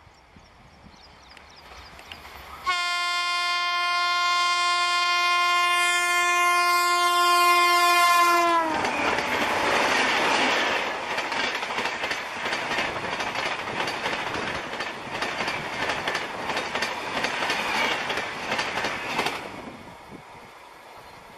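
Indian Railways WAP-7 electric locomotive sounding one long horn blast of about six seconds, its pitch dropping at the end as the locomotive passes. The Shatabdi Express coaches then rush past at speed, with a rapid clickety-clack of wheels over rail joints that fades near the end.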